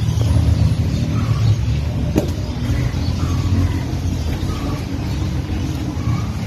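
Mitsubishi Galant's carbureted engine idling steadily, just reassembled after a top overhaul with new valve seals.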